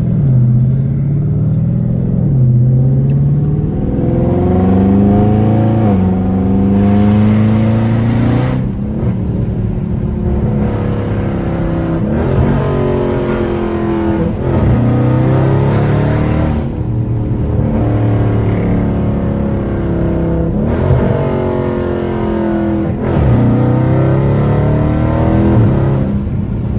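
Straight-piped exhaust of a Dodge Charger Scat Pack's 392 (6.4 L) Hemi V8, loud, running under load and shifting. The pitch repeatedly climbs, then drops sharply at each gear change.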